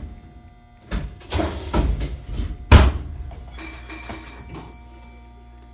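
Sounds inside a stopped passenger train: a few rustling, hissing noises and a sharp knock about three seconds in, then a short electronic chime of several high tones.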